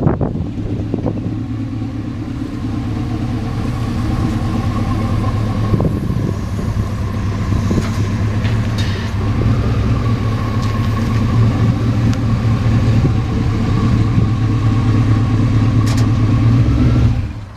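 A vehicle's engine running steadily with a low hum, slowly getting louder, then cutting off suddenly near the end.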